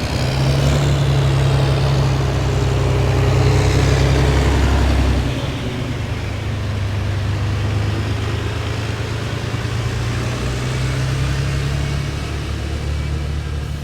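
Heavy military vehicles driving past in a column, a deep engine rumble with a falling whine as they pass. It is loudest for the first five seconds, then eases a little as the next vehicles come by.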